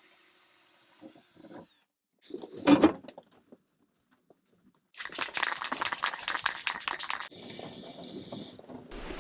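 Work on the heater's anchor holes in short bursts: a few soft knocks and one loud sharp knock about three seconds in, then after a silent gap about two seconds of loud rasping power-tool noise, followed by a steadier hiss.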